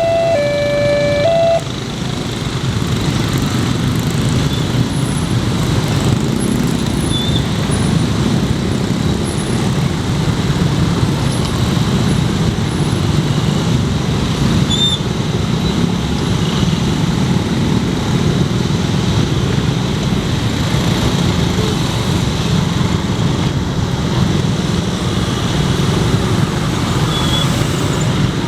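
A level-crossing warning siren plays a stepped electronic melody and stops about a second and a half in. Then a train passes over the crossing with a steady, heavy rumble of wheels on rail that lasts for most of the stretch.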